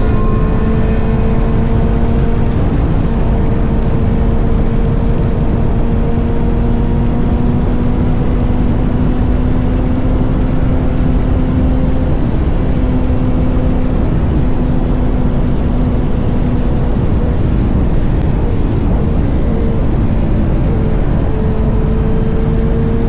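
Motorcycle engine running at a steady cruising note that creeps up in pitch over the first half and then holds, over a heavy low rumble.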